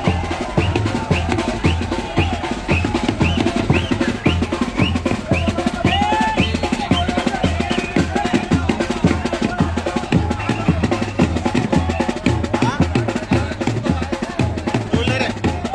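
Fast, continuous drumming: rapid snare-like strokes over a regular deep beat, with short higher calls or whistles over it.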